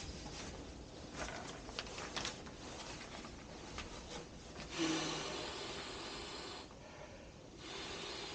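Camping gear being handled while a hammock bed is made up, with the sleeping mattress being set in place: rustling and rubbing with a few sharp clicks. About five seconds in comes a louder rushing noise lasting roughly two seconds.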